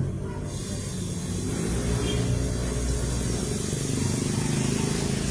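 Steady low mechanical rumble of a running motor or engine, swelling slightly about half a second in.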